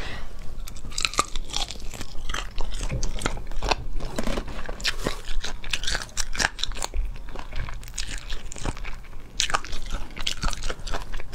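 Biting and chewing of spicy braised chicken feet: a run of sharp, irregular crunching clicks.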